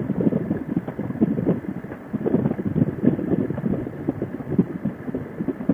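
Motorcycle riding at highway speed: wind buffeting the microphone in uneven gusts over the engine and road rumble.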